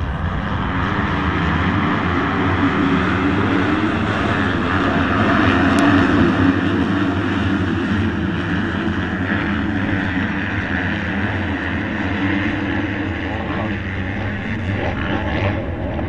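A pack of motocross bikes with their engines running together in a dense, loud drone, swelling to its loudest about six seconds in and then easing a little.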